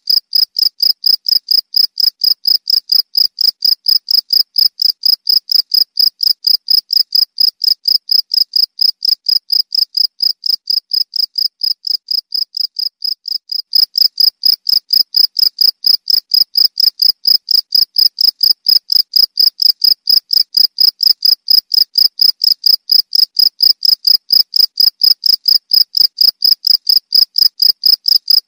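Cricket chirping in a fast, even run of short high-pitched chirps, about four or five a second. It dips softer for a couple of seconds near the middle, then returns to full strength.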